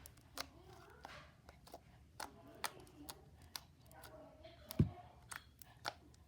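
Slime being squished and poked by hand, making irregular sharp clicks and pops, with one dull thump about five seconds in.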